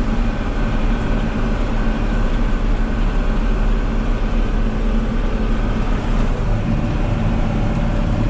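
Tractor engine running steadily under way, an even drone with no change in pitch.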